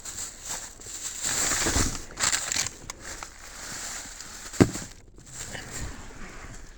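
Coat fabric and gloves rustling and crinkling as they are handled, with one sharp knock about two-thirds of the way through.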